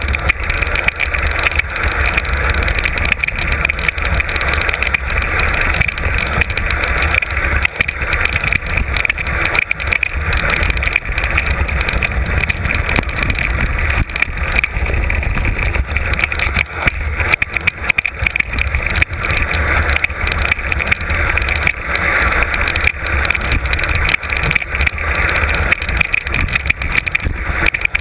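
Heavy wind buffeting on an on-board camera during a fast mountain-bike descent, with continual rattling and knocking from the bike over rough trail.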